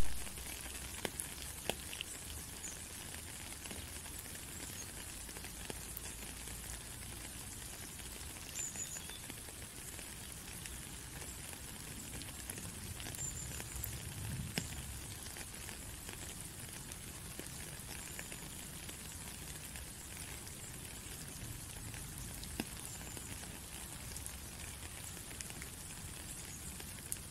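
Steady rain falling on a puddle and wet gravel, a soft even hiss with scattered drip clicks; it starts suddenly at the beginning.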